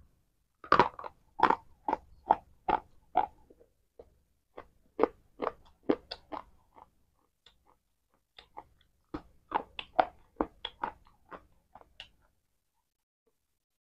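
Close-miked crunching as a person chews a hard, crumbly pale ball of food: three runs of sharp crunches with short pauses between them, stopping about twelve seconds in.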